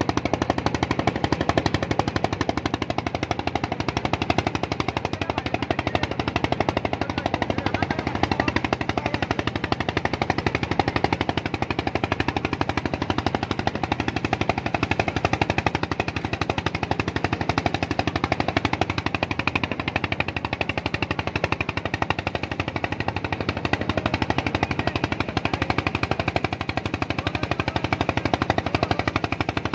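Small engine running steadily, giving a fast, even train of rapid beats.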